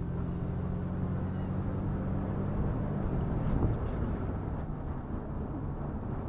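Vehicle running on the road, heard from inside: a steady low engine hum with road rumble, the hum dropping away about three seconds in and leaving mostly road noise.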